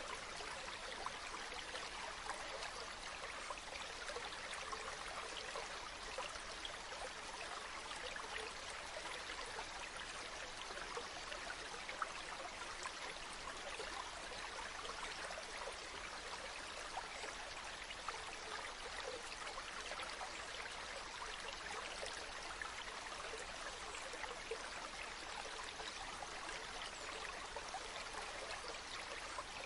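Steady running water, like a small stream trickling and babbling, with fine little splashes throughout.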